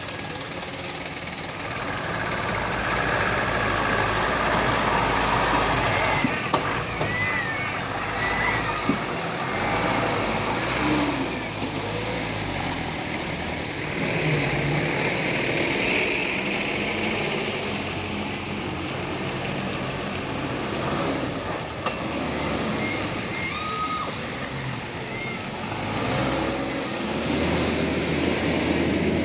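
Heavy truck engines running, the sound rising and falling in swells, with people's voices mixed in.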